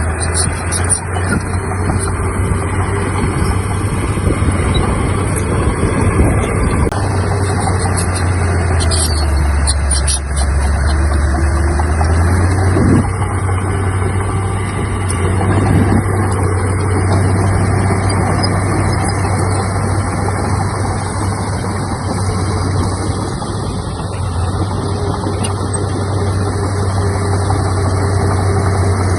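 Heavy diesel engine of earthmoving machinery running steadily. Its note drops lower about nine seconds in and comes back up about three seconds later.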